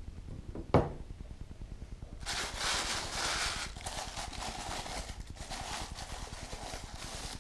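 A single sharp knock, as a part is set down, followed about a second and a half later by a long, uneven rustle of packaging being handled as the next model part is unwrapped.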